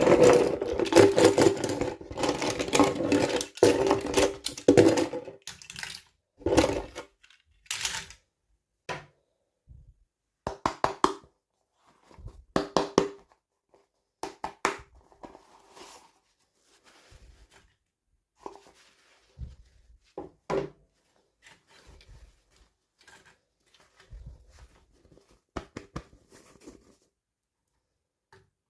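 Toy packaging being handled and opened: dense crinkling and rustling for the first several seconds, then scattered short clicks, taps and rustles as small plastic pieces are handled.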